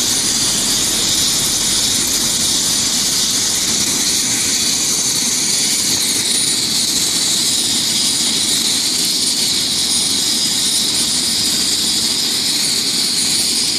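Rescue helicopter running steadily while landed on a highway: a loud, even rush with a thin high whine over it.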